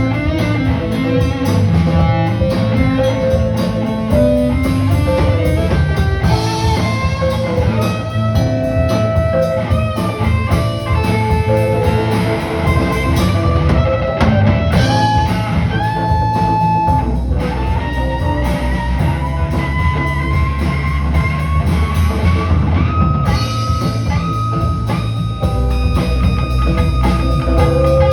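Live rock band playing: a guitar lead with bending, gliding and held notes over a drum kit.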